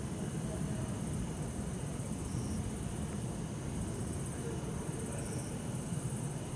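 Bell crickets (suzumushi) chirping: a short high call repeating about every three seconds over a continuous high insect trill. Beneath them runs a steady low rumble of city traffic.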